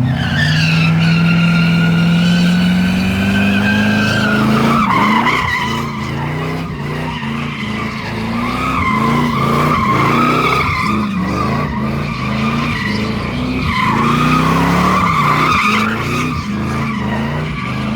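A car sliding with its tyres squealing and its engine held at high revs. For the first few seconds the engine note is steady and slowly rising; after that the revs bounce up and down in quick repeated steps, while the tyre squeal wavers throughout.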